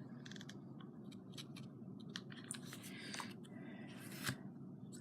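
Faint scattered clicks and rustles of small craft materials being handled on a tabletop, with one louder rustle a little after four seconds in.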